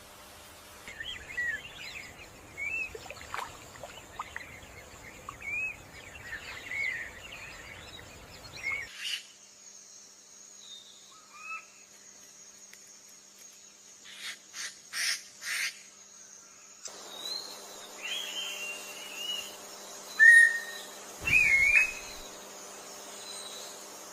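Bird chirps and short whistled calls, many brief notes in a row, with a quieter stretch midway broken by a few sharp clicks.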